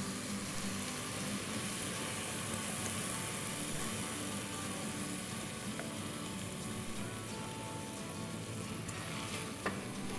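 Soaked rice, spices and corn sizzling in hot oil in a pressure cooker pan as the rice is scraped in and stirred with a spatula: a steady frying hiss, with a single sharp knock near the end.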